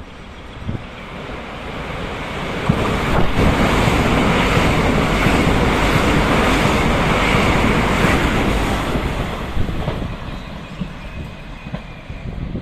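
A train passing close by: a rushing rumble that builds over the first couple of seconds, holds loud for about six seconds and then fades away.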